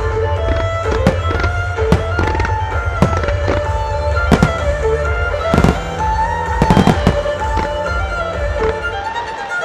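Starmine fireworks bursting in a rapid, irregular series of sharp bangs over music with held melody notes and a steady bass.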